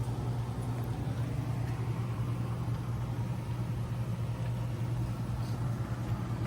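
A steady low mechanical hum that stays unchanged throughout.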